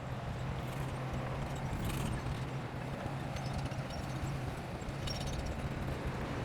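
Bulldozer's diesel engine running steadily, with a few light metallic clanks and rattles.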